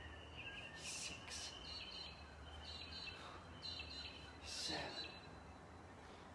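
Birds chirping in short repeated high calls over a low steady hum, with a brief breathy rushing noise about four and a half seconds in.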